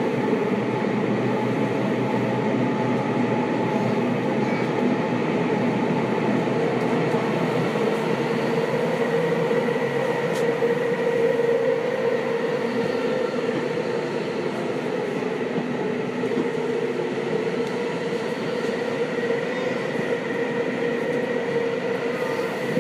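Seibu 6000 series electric train running at speed through a tunnel, heard from inside the car: a continuous rumble of wheels and track with a steady motor hum.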